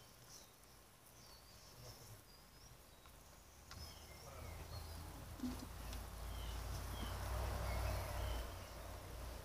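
Faint, short, high chirps of small birds now and then, over a low rumble that builds up from about four seconds in.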